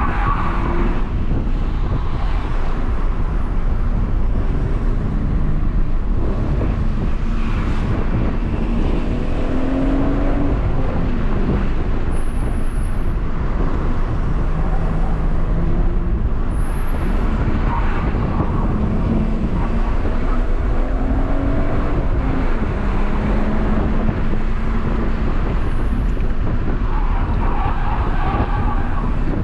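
BMW M140i's turbocharged three-litre straight-six heard from inside the cabin under way. The engine note climbs and drops several times over a steady rumble of tyre and road noise.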